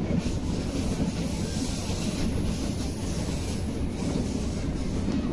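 Steady running rumble of a moving passenger train, heard from aboard a carriage.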